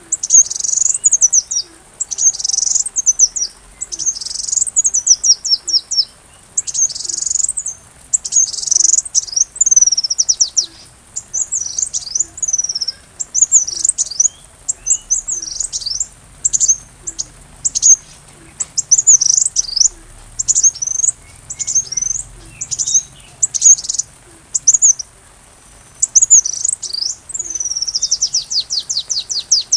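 Sunbird (kolibri) song: rapid bursts of high, thin, falling chirps and short trills, repeated over and over, with a longer fast trill near the end.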